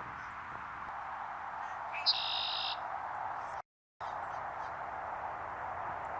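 A red-winged blackbird sings one song about two seconds in: a short lead-in note followed by a buzzy trill of under a second, over a steady background hiss. The sound cuts out briefly just past the middle.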